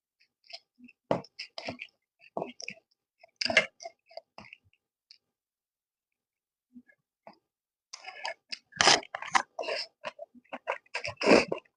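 Close-miked eating sounds: chewing and mouth clicks. They are scattered for the first few seconds, stop for about three seconds in the middle, and come back dense and louder about eight seconds in.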